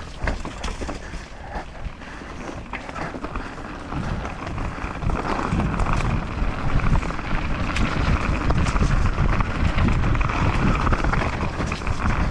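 Mountain bike riding down a dirt trail: tyres on dirt, clicks and rattles from the bike, and wind on the microphone, getting louder from about four seconds in as speed builds.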